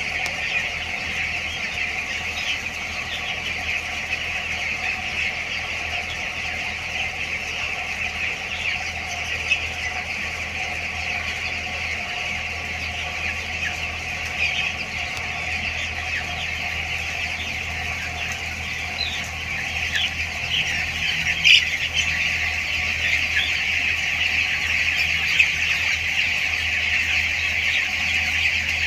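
A large flock of two-week-old broiler chicks peeping without pause, a dense chorus of many high calls over a steady low hum, with a few louder calls about two-thirds of the way through.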